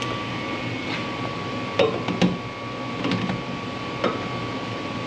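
Steady mechanical hum with a thin high-pitched whine, broken by a few light knocks about two seconds in and once more near four seconds.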